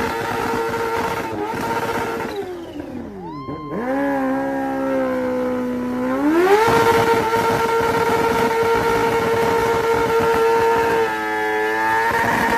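Kawasaki Ninja sport bike engine running at high revs. Its pitch falls steeply about two and a half seconds in, climbs back in two steps, holds high again, then dips near the end.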